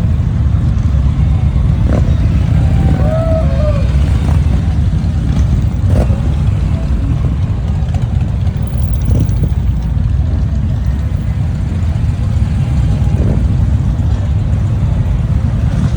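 Motorcycle engines running with a steady low rumble, with a few light knocks and faint voices about three seconds in.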